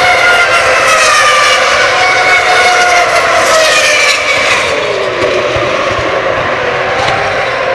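Formula One cars' 2.4-litre V8 engines running at high revs, several high-pitched engine notes heard together and gliding in pitch, with one falling away about four to five seconds in.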